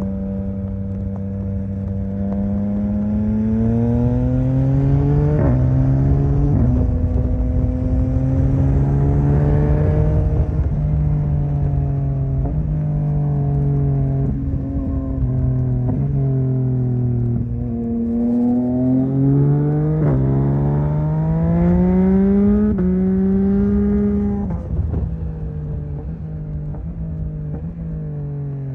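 Yamaha MT-09 (2021) inline three-cylinder engine under way. It revs up again and again, its note stepping down sharply at each upshift. It eases off once midway and climbs again, then drops and settles to a steady lower note near the end as the throttle is closed.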